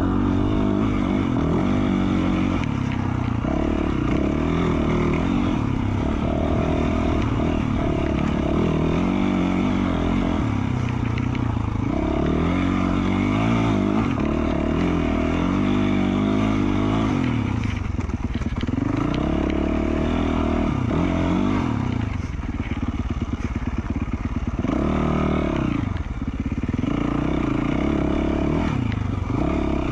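The four-stroke single-cylinder engine of a 2020 Yamaha YZ450F dirt bike, fitted with an FMF Q4 slip-on exhaust, revving up and down as the throttle is worked on the trail. Its pitch rises and falls again and again, with several sharp climbs and drops in the second half.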